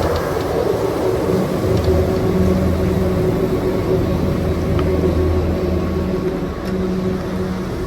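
DeMoisy Express detachable chairlift running, a steady mechanical hum with several held tones over a rushing noise.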